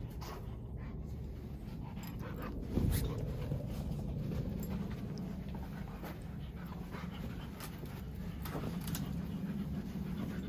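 A dog panting steadily, with a brief louder low sound about three seconds in.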